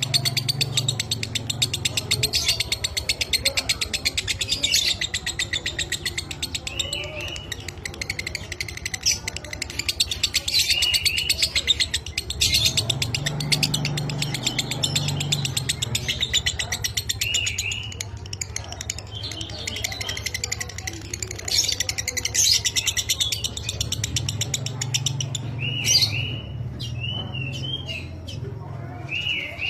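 Lovebird singing a long, fast, dry chattering song (ngekek), rapid rasping notes running on without a break, with short squeaky upturned notes here and there. A steady low hum runs underneath.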